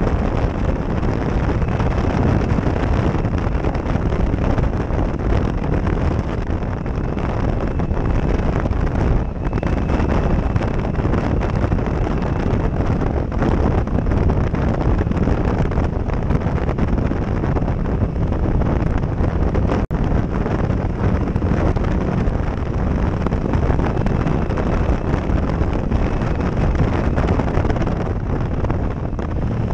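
Heavy wind rushing over a helmet-mounted action camera's microphone while a motorcycle is ridden, loud and steady throughout. The bike's engine can be heard faintly underneath, and there is a single brief tick about two-thirds of the way through.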